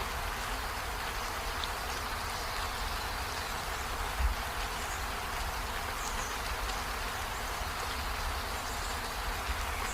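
Steady rain falling, an even hiss with a low rumble underneath, a few faint high chirps and one dull thump about four seconds in.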